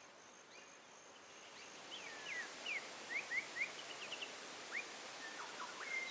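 A bird calling outdoors: a quick run of short whistled notes starts about two seconds in and goes on, with a few more notes near the end, over a steady background hiss.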